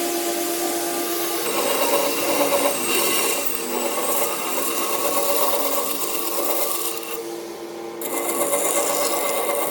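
Wood being abraded with a power tool: a steady gritty rubbing over a motor hum. It eases off for about a second roughly seven seconds in, then picks up again.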